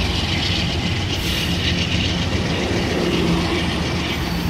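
A train rolling past on the rails, a steady rumble of wheels and cars with no break.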